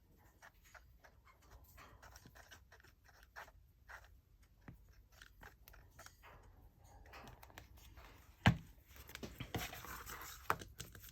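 Small clicks and rustles of paper and a glue bottle being handled while glue is spread on a journal spine. About eight and a half seconds in comes one sharp knock on the desk, followed by denser scraping and rubbing.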